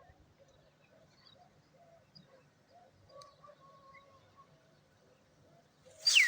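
Domestic pigeons cooing softly, and near the end one loud, sharp whistle that sweeps down in pitch and back up.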